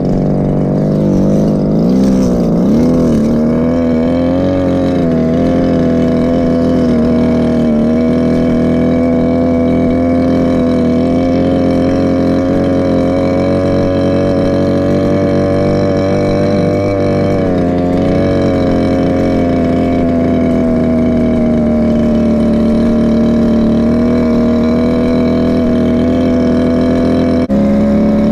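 Go-Ped scooter's Chongyang CY26RC small two-stroke engine running under load, its pitch wavering with the throttle over the first few seconds, then holding a fairly steady speed, and rising sharply near the end.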